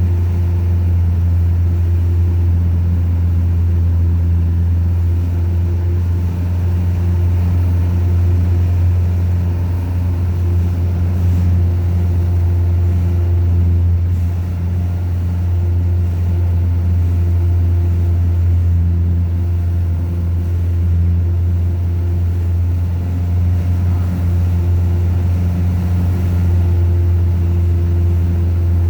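Light aircraft's piston engine and propeller droning steadily in the cockpit, a constant low hum with no change in pitch.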